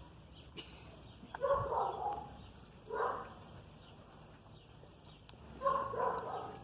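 A dog barking in three short bouts, about a second and a half, three seconds and nearly six seconds in.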